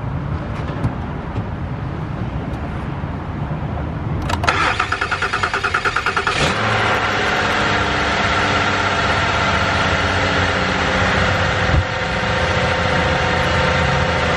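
Car engine cranked by its starter, a rapid even chugging for about two seconds, then catching about six seconds in and settling into a steady idle. It starts on the reinstalled battery, which the owner takes as a sign that something is draining the battery.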